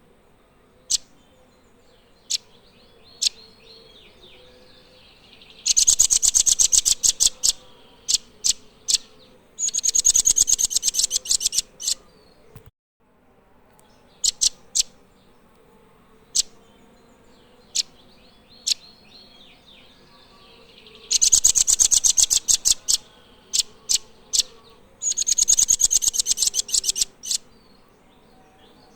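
Nuthatch calling: single sharp high notes about a second apart, broken by rapid, high trills of about two seconds each, two in quick succession, twice over.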